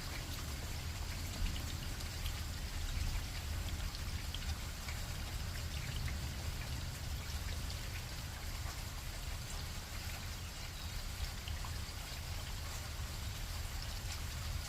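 Steady light rain, with scattered individual drops ticking over an even patter and a constant low rumble underneath.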